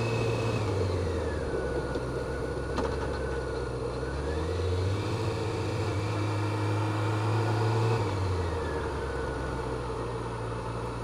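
Honda CBR600F4i sport bike's inline-four engine running while riding. Its pitch drops about half a second in, climbs again near the middle, holds for a few seconds, then drops again, as when slowing, accelerating and slowing once more. A single brief click comes near the three-second mark.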